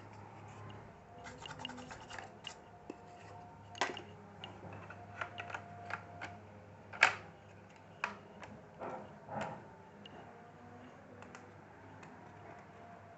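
Scattered small clicks and taps of a laptop speaker and case parts being handled and fitted into the HP Compaq CQ40 laptop, with one sharper knock about seven seconds in. The clicking stops about ten seconds in, leaving a low hum.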